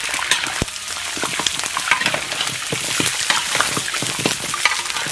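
Big leg bones sizzling in hot oil in a large iron wok, stir-fried to render out their fat. A metal spatula scrapes and knocks against the pan many times.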